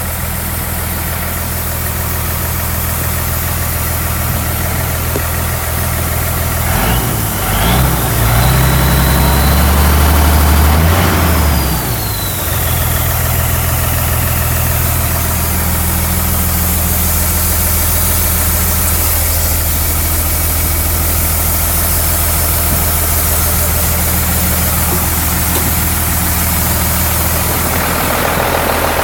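1986 Mack dump truck's diesel engine idling steadily, revved up once about a quarter of the way in and held for a few seconds before dropping back to idle, with a high whine sliding down as the revs fall.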